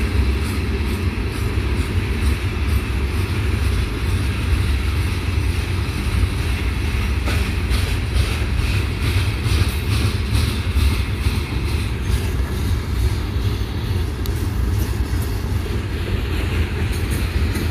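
Diesel freight train running, a steady low rumble with faint clicking in the middle stretch.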